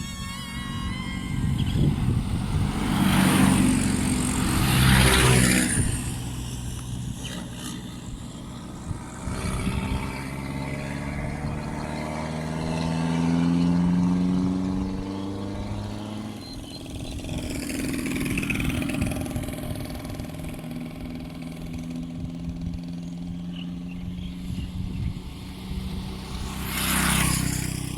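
Road vehicles driving past: a loud rush of engine and tyre noise as one passes close a few seconds in and another near the end, with an engine whose pitch sweeps up and down in between.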